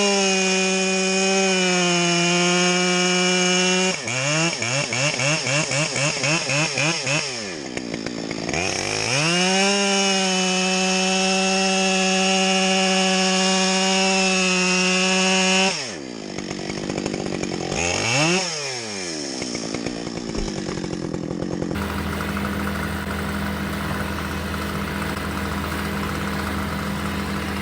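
Gas chainsaw run at full throttle through cuts in elm wood. The revs pulse rapidly for a few seconds, climb back to a steady high whine, then drop to idle with a quick blip. Near the end the sound changes abruptly to a steady low engine hum.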